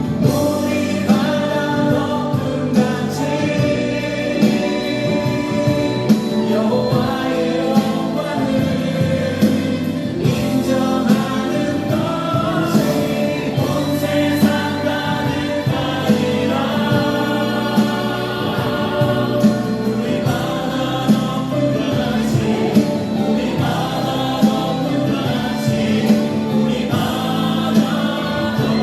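Christian worship song sung by a choir, with instrumental backing and a steady beat.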